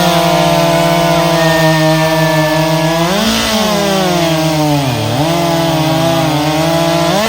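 Chainsaw running at high revs through a log. Its pitch lifts briefly about three seconds in, sags as it bogs in the cut about five seconds in, recovers, and revs up sharply near the end.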